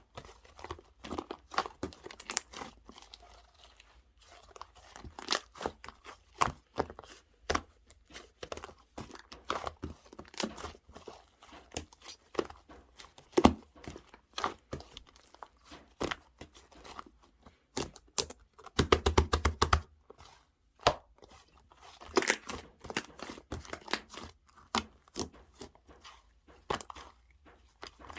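Slime being squeezed, poked and stretched by hand, giving irregular sticky pops and crackles, with a quick run of rapid pops about two-thirds of the way through.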